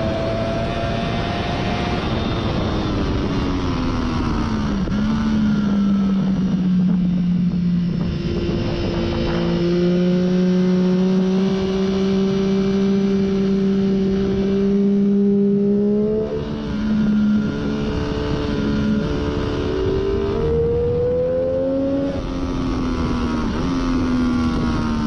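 2014 Triumph Daytona 675's inline-three engine with a Hindle slip-on muffler, ridden hard on track. Its pitch falls a couple of seconds in as it slows, then climbs slowly through a long pull, dips briefly about two-thirds through, rises again and falls toward the end, over a steady rushing noise.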